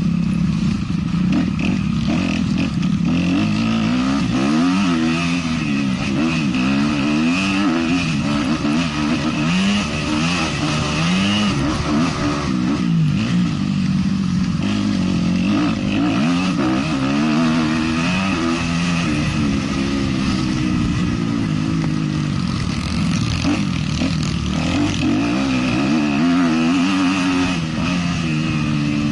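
450-class motocross bike engine racing on track, its pitch rising and falling every second or two as the throttle is opened and shut, with some clatter.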